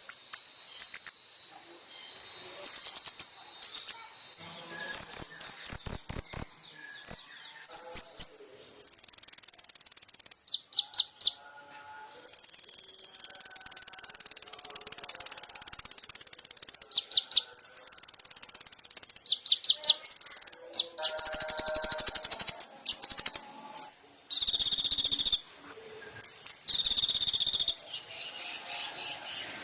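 Kolibri ninja (konin) sunbird song: very high-pitched rapid trills and chirping runs broken by short pauses, with one long unbroken trill about halfway through.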